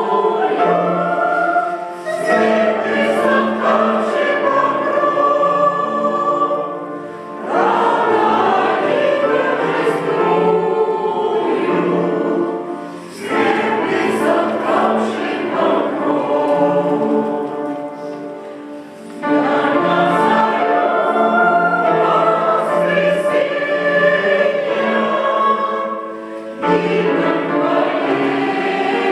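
Church choir singing a hymn in Russian, in long sustained phrases with short dips between them about every six seconds.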